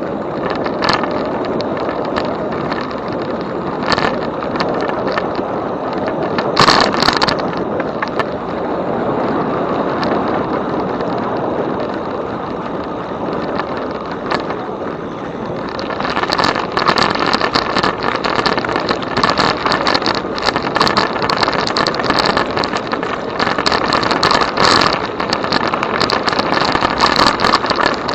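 E-bike ride noise: wind on the microphone and tyres rolling, with a thin steady whine. About halfway in it turns rougher and louder, with many small clicks and rattles.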